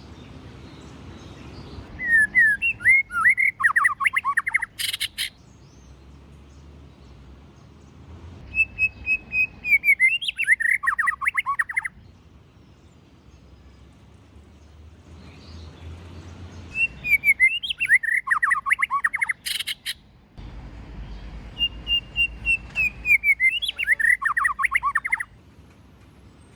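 White-rumped shama singing: four loud phrases, each opening with clear whistled notes and breaking into a quick run of varied notes. A sharp click ends the first and third phrases.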